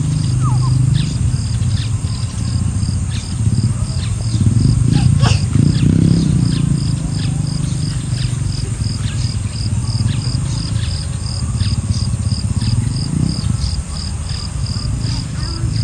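Tropical forest ambience: an insect pulsing steadily about two to three times a second, with scattered short falling bird calls, over a loud low rumble.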